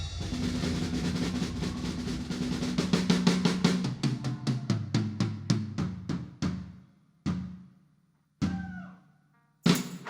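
Drum kit playing a fast drum roll over a low held note, slowing into a few single hits that ring and die away. A loud hit with a cymbal crash comes just before the end.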